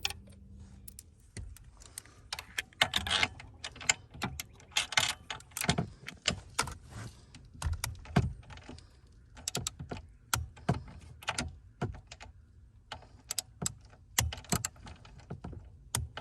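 Irregular clicking and clattering of hand work on steering-wheel parts, with dozens of short sharp knocks at uneven spacing.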